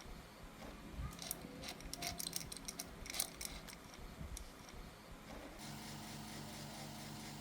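Small metal parts and tools clinking and ticking as they are handled, then, just before the end, a steady mechanical hum with a regular pulse starts abruptly.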